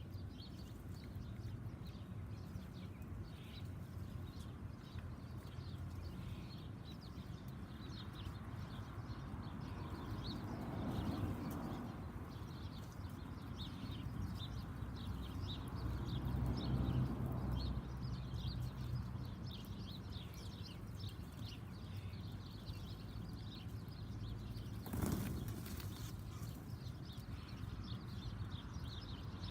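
Small backyard birds chirping with many short, high calls over a low, steady rumble that swells twice in the middle; a single sharp knock about 25 seconds in.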